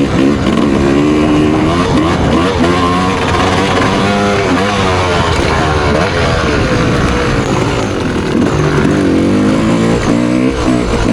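Motocross bike engine revving up and down repeatedly as it accelerates and shifts, with guitar music underneath.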